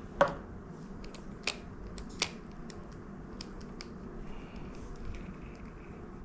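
Sharp clicks and light ticks from a spinning reel being handled during oiling, over a steady low hum; the loudest click comes about a quarter second in, with two more near one and a half and two seconds.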